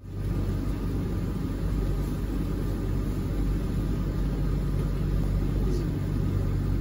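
Diesel locomotive running, heard from inside the cab: a steady low engine rumble and hum.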